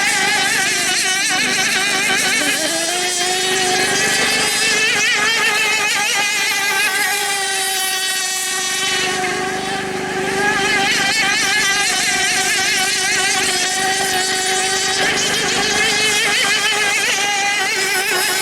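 Several radio-controlled model boats running together on the water, their small motors whining at high pitch, each pitch wavering up and down as they race.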